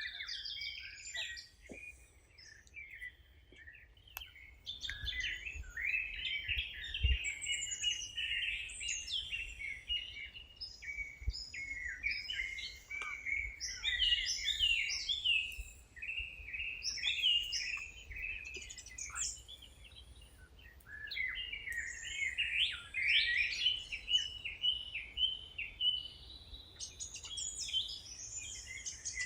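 Several songbirds singing together: a dense, overlapping chorus of quick chirps and short trills, with brief lulls now and then.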